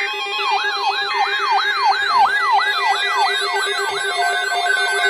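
Layered electronic siren alarm: a rapid yelp sweeping up and down about three times a second, over a steady pulsing lower tone.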